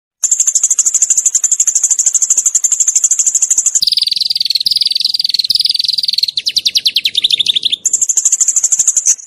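A small songbird singing rapid, sharp rattling trills (the 'tembakan' or 'shooting' phrases used as tutor song for cage birds). A very fast, high trill gives way about four seconds in to a lower, wavering trill, then a slower run of separate notes, and the high trill returns near the end.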